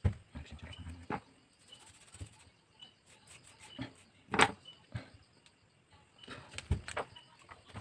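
Scattered light clicks and taps of small tools and phone parts being handled on a repair bench, with one sharper click about halfway through and a quick cluster of taps near the end.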